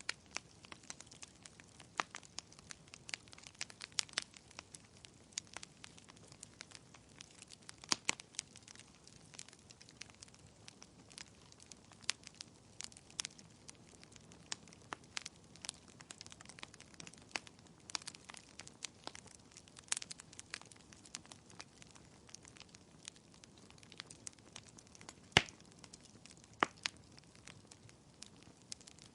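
Wood fire crackling in a fireplace: irregular sharp pops and snaps over a soft steady hiss, with one louder pop late on.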